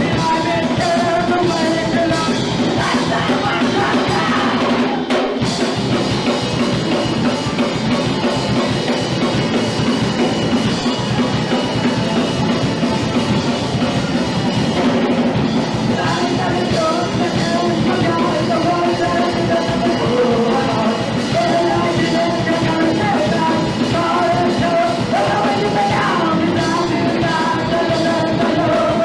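Punk rock band playing live: drum kit, amplified instruments and a singer, loud and continuous.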